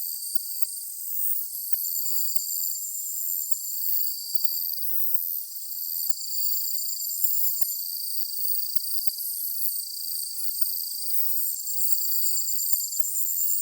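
Chorus of summer evening insects such as crickets chirping: several overlapping, pulsing trills at different high pitches, each starting and stopping on its own, with no low sound at all.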